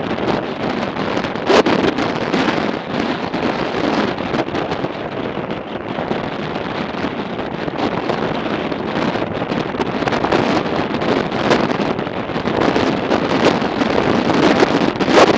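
Heavy wind noise from strong gusting wind buffeting the microphone of a moving motorcycle, with the ride's road and engine noise beneath it.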